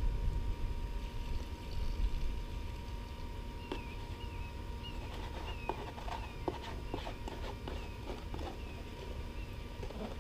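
A small bird chirps a repeated series of short, falling notes, about two a second, for several seconds. Under it runs a steady low mechanical rumble, with a few scattered clicks and knocks.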